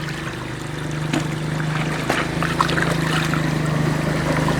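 A small engine running steadily with a constant low hum, over trickling, splashing water and a few small knocks.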